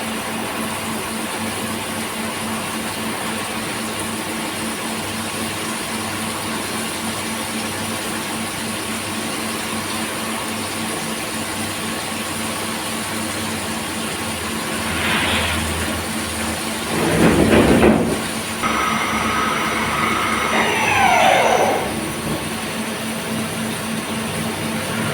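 CNC machine running with a steady hum, with louder cutting noise about two-thirds of the way in. Near the end comes a whine that falls steeply in pitch.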